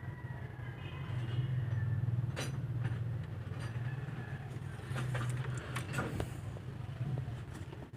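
Foton Thunder pickup engine running with a steady low hum, with a few sharp clicks over it.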